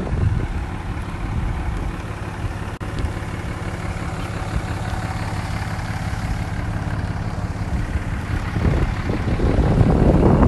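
Jeep Wrangler Unlimited engine idling steadily, growing louder and rougher near the end.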